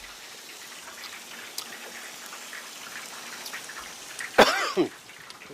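Pan of country gravy simmering with a steady hiss and faint scattered popping. About four and a half seconds in, the gravy is tasted: a sharp slurp, then a short falling vocal 'mmm'.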